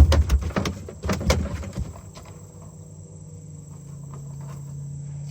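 Heavy knocks and thumps on a boat in the first couple of seconds, then a steady low motor hum that sets in about two seconds in and slowly grows louder.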